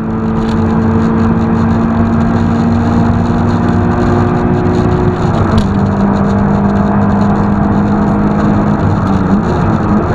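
Sports car engine running hard, heard from inside the cabin: a loud, steady engine note over wind and road noise, its pitch dropping a step about halfway through.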